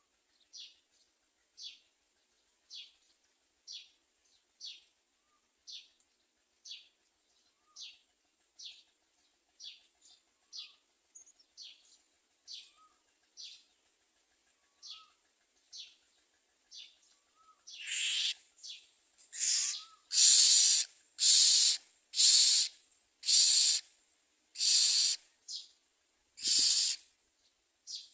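Common myna nestlings calling in the nest: short high calls repeated a little under once a second, then, about eighteen seconds in, much louder harsh hissing begging calls, roughly one a second.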